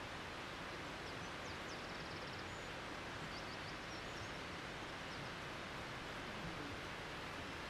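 Outdoor nature ambience: a steady, even rushing noise with a few faint, high-pitched bird chirps, including a short rapid trill about two seconds in.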